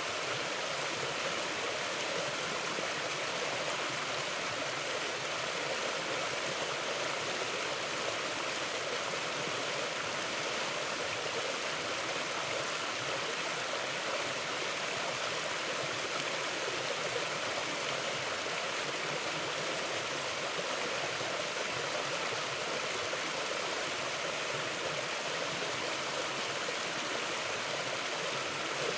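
Mountain river water rushing steadily over rocks, an even hiss with no change.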